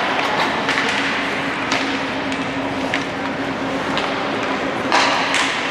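Ice hockey play in an arena: scattered sharp clacks and knocks of sticks and puck, the loudest about five seconds in, over a steady hum of the rink.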